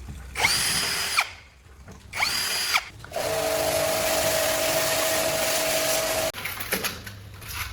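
Electric power tool, drill-like, run in two short bursts whose whine drops in pitch as each one winds down, then run steadily for about three seconds before stopping suddenly.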